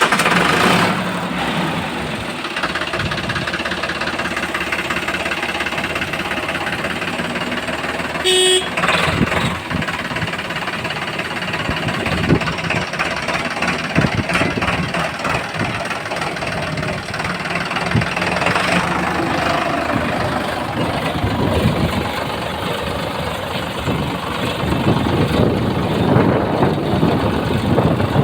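Heavy diesel engines of a backhoe loader and tractor running under work, with a short vehicle horn toot about eight seconds in and a few knocks.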